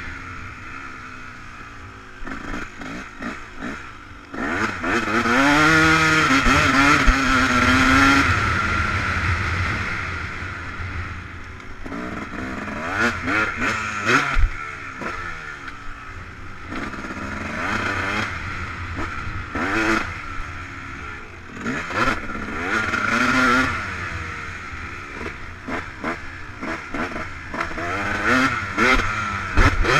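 Yamaha YZ250 two-stroke motocross bike engine revving up and down as it is ridden round the track, with a long loud surge about four seconds in and several shorter surges after.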